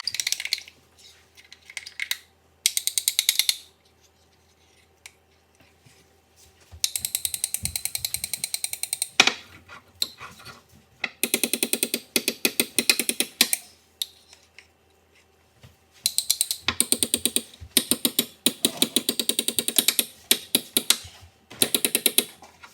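A spoon stirring stiff peanut-butter cookie dough, clicking rapidly against the side of the container in bursts of a few seconds with short pauses between.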